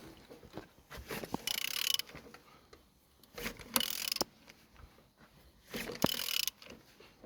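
Volkswagen 1.6 TDI (CAYC) diesel engine being turned over by hand with a wrench: three rasping mechanical strokes about two seconds apart, with light clicks between them.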